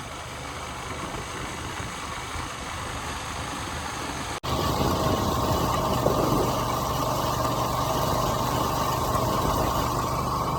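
A vehicle engine running steadily on the move. About four seconds in there is a sudden break, after which it runs louder with a steady hum.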